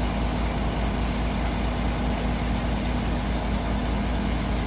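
Heavy truck's diesel engine running at a steady speed, an even low hum with no change in pitch.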